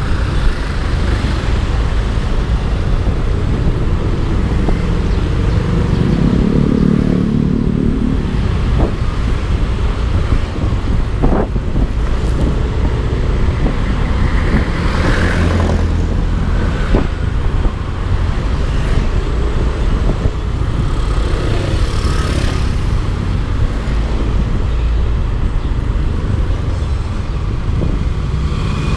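A Yamaha Aerox 155 scooter ridden through traffic. Heavy wind rumble on the camera microphone covers the engine and the passing vehicles, and an engine note swells briefly about seven seconds in.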